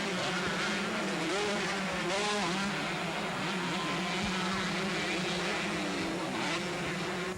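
Several 125cc two-stroke motocross bikes racing, their engines revving up and down in overlapping rising and falling pitches as they run the track.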